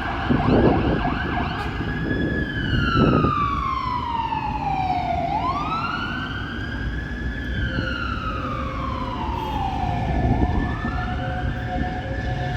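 Fire engine siren sounding a slow wail, sweeping down and back up about every five seconds, over the Scania P360 fire truck's diesel engine running. Two short loud blasts come in the first three seconds.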